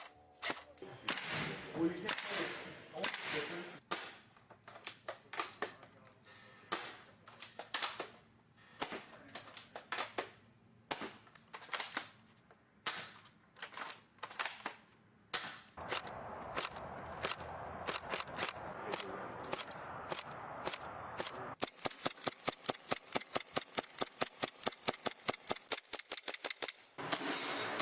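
Airsoft guns firing: irregular single shots at first, then a rapid, even burst of automatic fire at about seven shots a second for roughly five seconds near the end.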